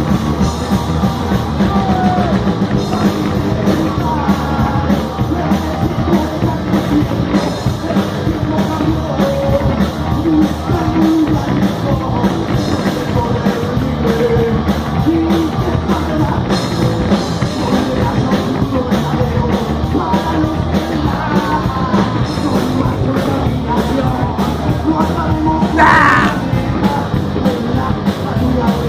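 Rock band playing live, with a drum kit and singing.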